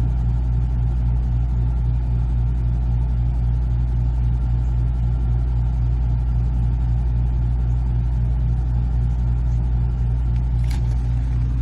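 WEN 3600-watt portable generator and the 16,000 BTU air conditioner it powers, running together as a steady low drone, the generator carrying the running load. A brief click comes near the end.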